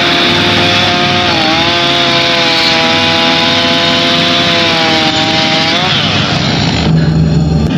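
Chainsaw running at high revs with a steady engine note, dipping briefly about a second and a half in, then falling in pitch as it winds down near the end. A lower, steady engine hum takes over in the last second.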